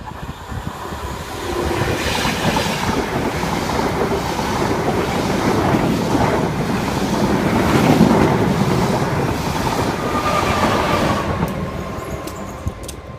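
A train passing at speed. Its rumble builds over the first two seconds, peaks about eight seconds in, then fades, and a thin high tone falls slightly shortly before the end.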